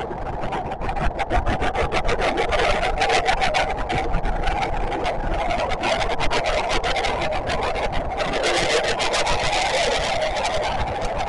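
JR West 521 series electric train running on the line, heard from just behind the cab: a steady running rumble with a rapid, dense clatter over it.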